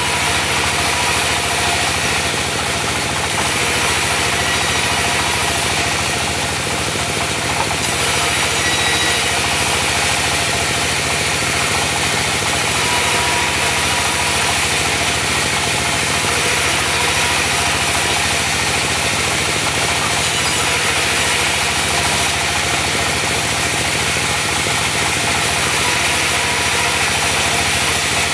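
Diesel engine running steadily, driving a mobile band sawmill.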